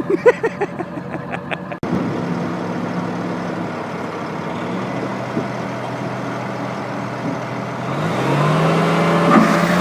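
A motor vehicle's engine running steadily, then speeding up near the end with its pitch rising. Just before, for about the first two seconds, a person's voice sounds over an engine idling.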